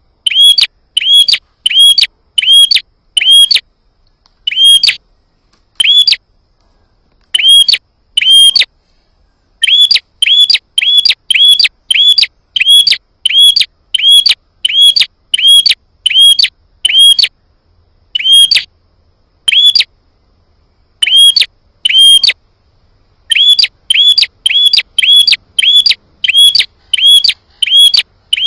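Prenjak (prinia) calling: short, sharp, identical chirps repeated about three a second in runs, broken by brief pauses. This is a lure-call recording used to draw in and provoke prenjak.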